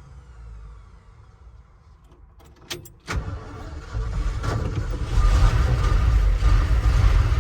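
A few sharp clicks about three seconds in, then the old pickup truck's engine rumbling, low and loud, growing louder a second later and again about two seconds in from that.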